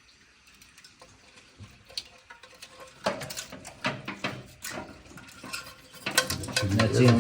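Light metallic clicks and clinks of hand tools and small metal parts being handled, starting about three seconds in and coming thicker toward the end.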